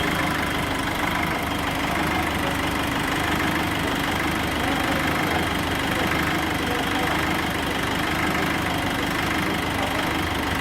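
Nissan Frontier 2.5 engine idling steadily and evenly. It runs smoothly after a repair for cold stalling and an engine noise.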